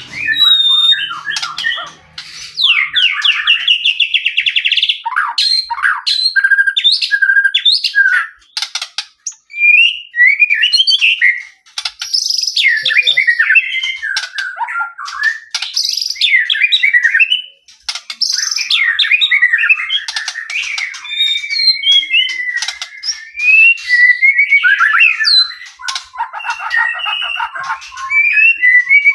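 White-rumped shama (murai batu) singing in full, a near-continuous stream of rapid, varied whistles, trills and harsh notes, with a fast buzzing trill a few seconds in, a long gliding whistle past the middle and a harsh rattling phrase near the end.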